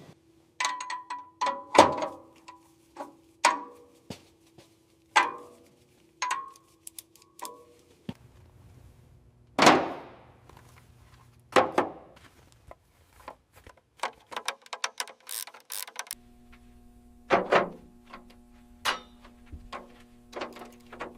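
Metal truck parts and tools clanking and knocking: an irregular series of sharp metallic impacts, many ringing briefly.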